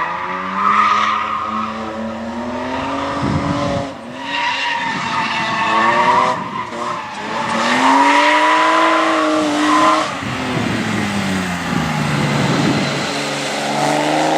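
BMW E30 drifting: the engine revs rise and fall repeatedly under throttle while the tyres squeal through the slides, with short lifts of throttle about four and ten seconds in.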